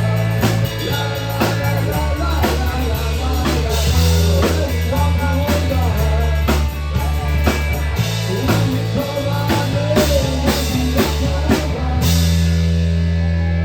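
Rock song playing, with drum kit, bass and guitar keeping a steady beat. About 12 seconds in, the drums stop and the band ends on a held chord that rings on.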